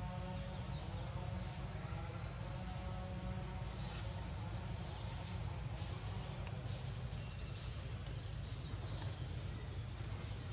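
Steady high-pitched chorus of insects, over a constant low rumble.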